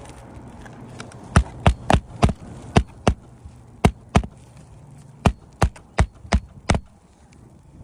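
Hammer blows, about thirteen sharp strikes in three quick runs with short pauses between, while working over-driven nails out of roof shingles.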